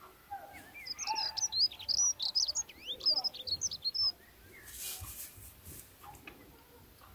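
Small birds chirping: a dense run of quick, high chirps for about the first four seconds, then only faint background, with a brief soft hiss about five seconds in.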